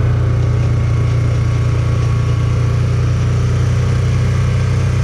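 A vehicle's engine running at a steady speed while being driven, a constant low hum with no change in pace.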